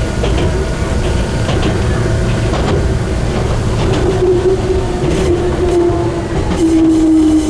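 Enoden electric train running on the rails: a steady low rumble of wheels on track with a motor whine whose pitch sinks slightly from about four seconds in. Short high hissy bursts of wheel-on-rail noise come in near the end.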